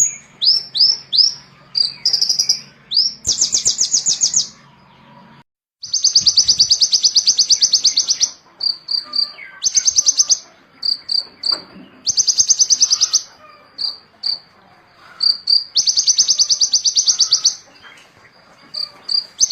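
A small songbird singing: fast, high, buzzy trills of one to two seconds alternating with short sharp chips, with a few quick upslurred whistles at the start. The song cuts out for a moment about five and a half seconds in.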